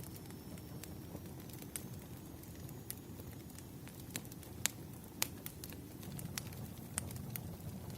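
Wood fire crackling: irregular sharp pops and snaps over a low steady rumble of burning logs. The loudest pops come in the middle, at about four and a half and five seconds in.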